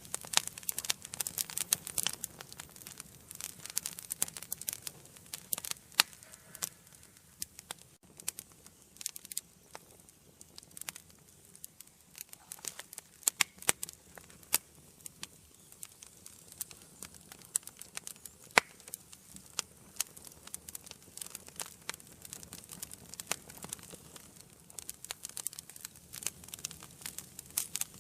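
Wood fire burning in a fireplace: irregular crackling and snapping over a soft hiss, with a few sharper, louder pops.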